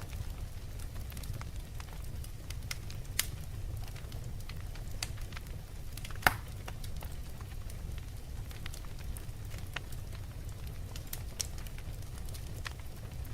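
Fire crackling: scattered sharp pops and snaps over a steady low rumble, with one louder pop about six seconds in.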